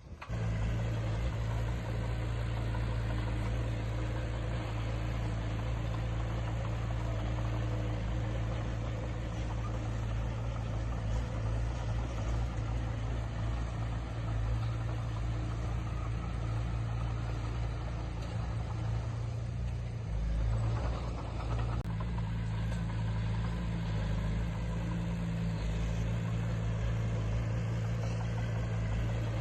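Diesel engine of a heavy earthmoving machine running steadily, with a low, even engine note; the note shifts briefly about two-thirds of the way through.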